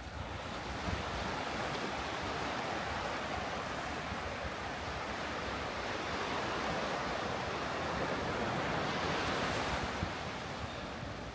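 Surf on a sandy beach: a steady rush of waves washing in that swells to its loudest late on and eases off near the end, with wind rumbling on the microphone.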